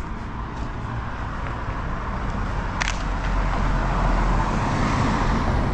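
Road traffic: a car passes, its tyre and engine noise swelling to a peak about four to five seconds in. A single sharp click about three seconds in.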